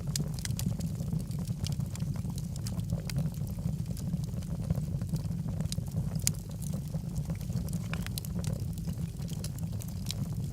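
Wood logs burning in a fireplace, crackling with frequent irregular sharp pops, a few louder ones standing out, over a steady low rumble of the fire.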